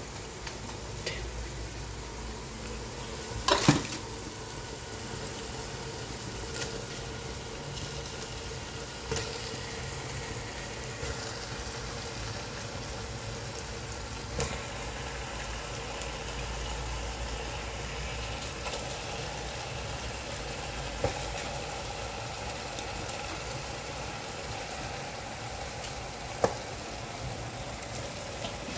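Onion-tomato biryani masala sizzling steadily in a pot as marinated raw chicken pieces go into it, with a few knocks of pieces and a wooden spatula against the pot, the loudest about three and a half seconds in.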